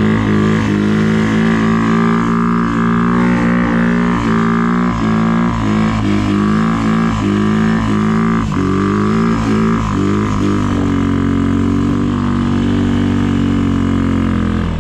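A vehicle engine running, its pitch rising and dropping repeatedly for about ten seconds, then holding steady near the end.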